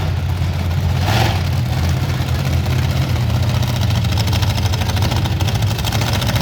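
Monster truck engines running loud and steady at a low, even pitch, with a brief rush of noise about a second in.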